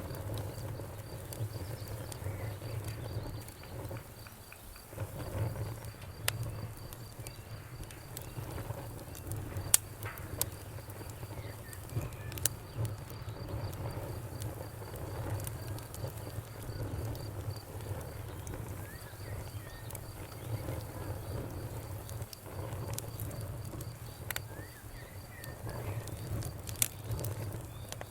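Wood fire in a fireplace crackling over a low, steady rumble of flame, with scattered sharp pops, the loudest about ten seconds in, twelve and a half seconds in, and near the end.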